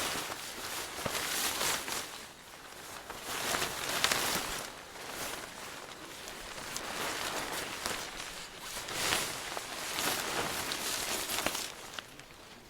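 Rustling and crinkling handling noise that swells and fades several times, with scattered sharp clicks.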